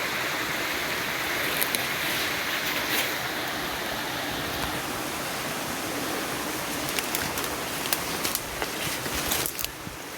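Stream water rushing, a steady hiss. In the second half come scattered sharp clicks and snaps, and the rushing drops away near the end.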